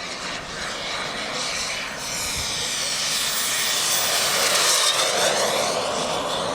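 Kingtech model jet turbine of a 1:5-scale RC F-16 flying past, a steady rushing jet noise that swells to its loudest about two-thirds through and then eases slightly.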